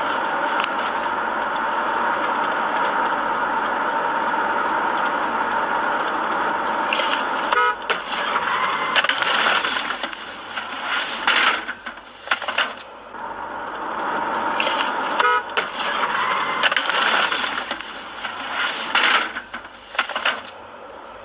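Car horn held in one long, steady blast for about the first seven seconds, then uneven road and traffic noise with several sharp knocks.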